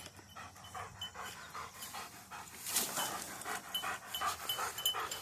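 Dogs, a German shepherd and a Belgian shepherd, panting hard in quick regular breaths, about three a second, winded from pulling a bike. A light metallic jingle comes in near the end.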